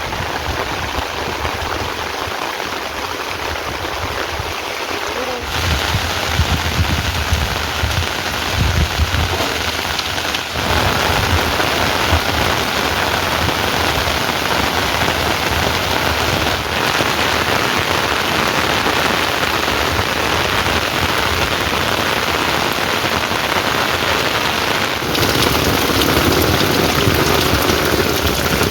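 Heavy rain pouring down in a steady dense hiss, with a low rumble under it in the first part. The sound jumps abruptly louder or changes character a few times, about five, ten, sixteen and twenty-five seconds in.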